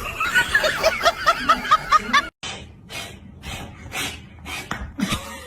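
A quick snickering laugh, a string of short high notes that rise and fall, for about two seconds. It cuts off abruptly and a run of short sharp clicks and taps follows.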